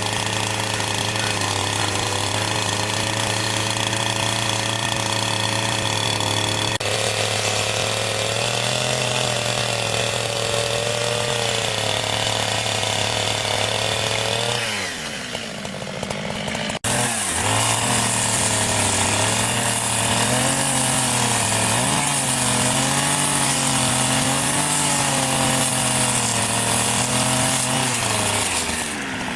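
Two-stroke chainsaw running at a steady pitch, which drops away about halfway through. After a short break it runs again, its pitch rising and falling repeatedly.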